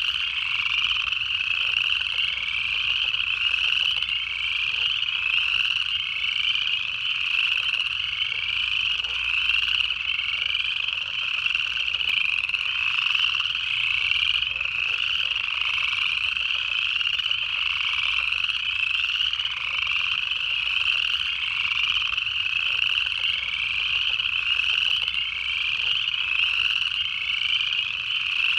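Dense chorus of upland chorus frogs, many rising trills overlapping without a pause.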